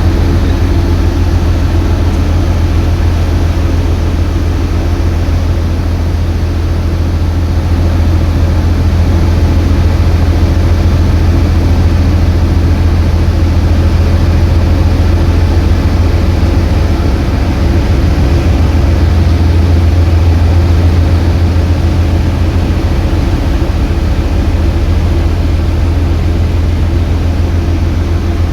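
Ship's engine running with a steady, loud low drone.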